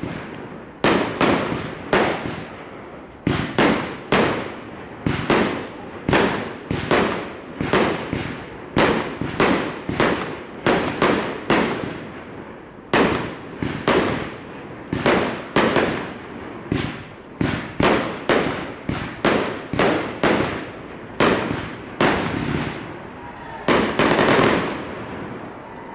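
A barrage of big fireworks going off, a rapid series of sharp bangs at about one and a half a second, each with a short echoing tail, and a longer, louder burst near the end.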